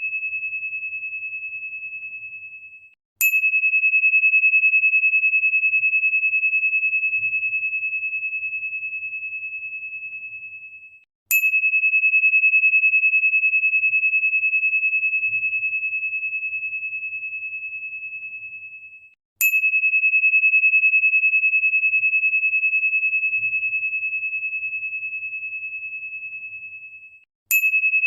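A single high, pure ringing tone, struck four times about eight seconds apart. Each strike starts with a sharp click and the tone fades slowly until the next.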